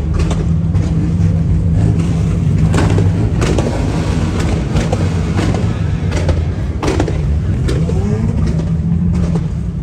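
Car engine idling steadily close by, a low continuous rumble, with scattered short knocks and background voices of a crowd.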